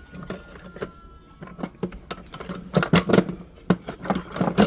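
Hand metal file scraping the sides of an 18 karat gold ring in short, irregular strokes, coming thicker and louder in the second half, over a steady low hum.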